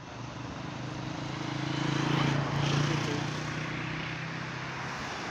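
A motor vehicle engine running with a steady low hum. It grows louder over the first two to three seconds, then eases off slightly, like a vehicle passing close by.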